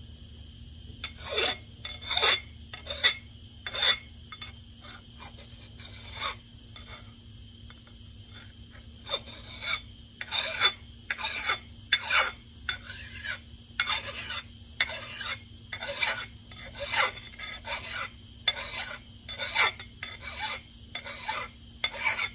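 Hand file rasping across the steel of an axe head in short push strokes, cutting a new bevel for the edge. A few strokes come a second or so in, then they fall faint, then from about nine seconds in they come quickly, roughly one or two a second.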